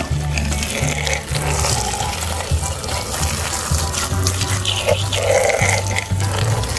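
Running water, as toys are rinsed clean, under background music with a stepping low bass line.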